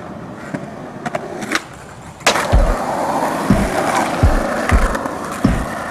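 A few sharp clicks, then a steady rough rolling noise starting about two seconds in, with a low thump about every second.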